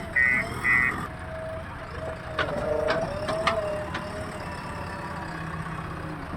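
A backhoe loader's reversing alarm beeps twice, about two beeps a second, then stops. The diesel engine keeps running, with a few sharp metallic knocks near the middle.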